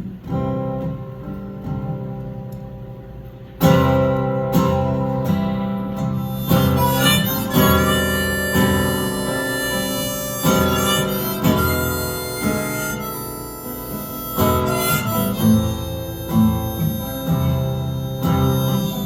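Strummed acoustic guitar with a harmonica playing over it: the instrumental introduction of a folk song. The playing gets suddenly louder about three and a half seconds in.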